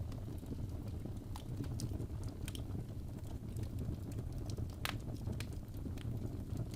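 Wood fire in a fireplace crackling, with irregular sharp pops and snaps, the loudest about five seconds in, over a steady low rumble.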